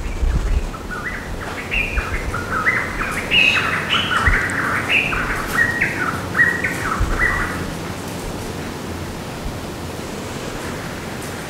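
A songbird singing a rapid run of short notes that step up and down in pitch for about seven seconds, then stopping.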